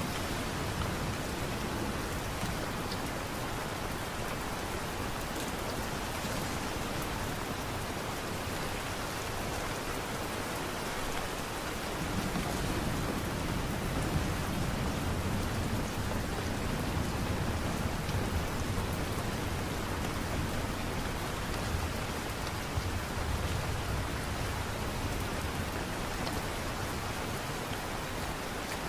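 Steady light rain falling, an even hiss. A low rumble swells up under it for several seconds about midway through.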